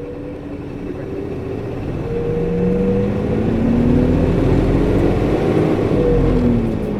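Diesel city bus heard from inside, its engine rising in pitch and loudness as it pulls away, then dropping in pitch about six seconds in. The cooling coupling fan is running alongside the engine, its whir unusually loud for the engine speed.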